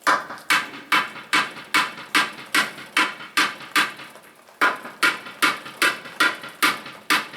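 Hammer blows on the metal of a tractor's front wheel during a tyre repair, struck in a steady rhythm of about two and a half blows a second, each with a short ring, with a brief pause about four seconds in.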